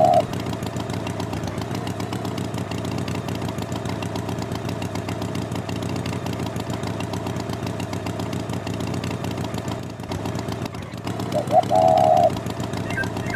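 Cartoon tractor engine running steadily at idle. A short honk of a horn sounds about a second before the end: one brief pip, then a longer held tone.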